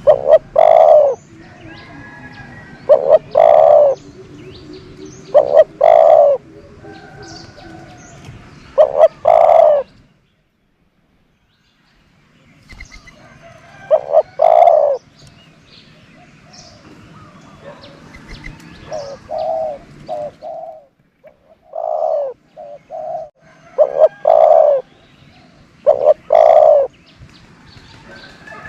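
Decoy spotted dove cooing at close range, over and over: every few seconds a phrase of one or two short coos and then a longer coo. The calls stop for a couple of seconds about ten seconds in, then carry on.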